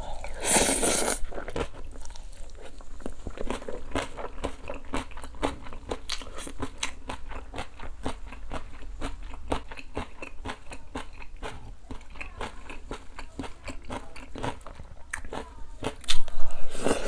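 Close-miked chewing of a mouthful of rice mixed with crunchy julienned radish salad: a steady run of small crunches and wet mouth clicks. A loud slurp comes as the bite goes in, and another near the end as a spoonful of seafood doenjang stew is taken.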